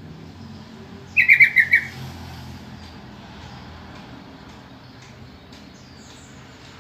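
Yellow-vented bulbul (trucukan) giving one quick chattering call of about six rapid notes about a second in, over faint steady background noise.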